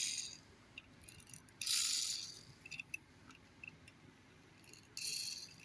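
Pull-back motor of a cheap diecast toy Volkswagen Beetle, its little gears whirring and ratcheting in three short bursts as the wheels turn, with faint clicks between.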